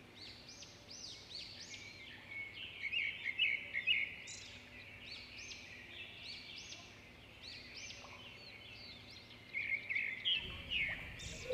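Small birds chirping: many short, high, arching calls repeated a few times a second, fairly quiet, with brief louder spells about three seconds in and again near the end.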